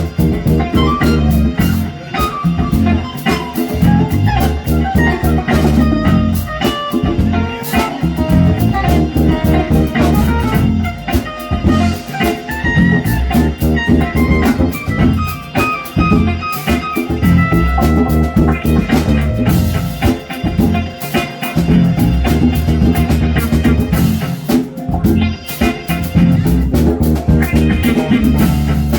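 Live band playing an instrumental passage: a guitar line over drum kit and a heavy low end.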